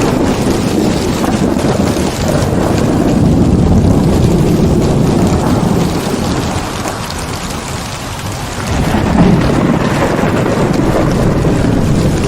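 Heavy rain with rolling thunder, a deep rumble that eases about seven seconds in and swells again about nine seconds in.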